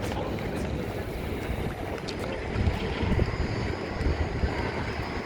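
Wind buffeting the microphone: an irregular low rushing noise with no clear tones.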